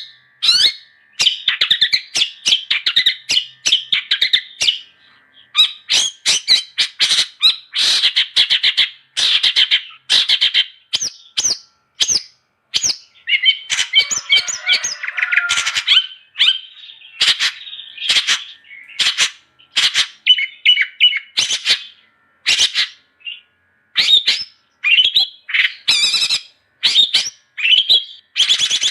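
Long-tailed shrike singing hard: a fast, varied string of short chirps, whistles and harsh squawks, delivered in bursts with brief pauses between them.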